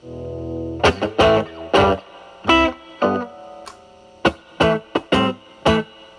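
Electric guitar (Telecaster) played through a Mosrite Fuzzrite-style fuzz pedal with its volume at maximum, into a Marshall Valvestate amp. A held chord rings out for the first second, then comes a run of short, choppy staccato stabs.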